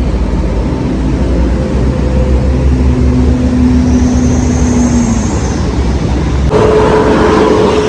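Heavy road traffic passing close by, with bus engines rumbling low and a steady hum that swells and fades in the middle. About six and a half seconds in, a louder, harsher noise starts suddenly with a steady tone running through it.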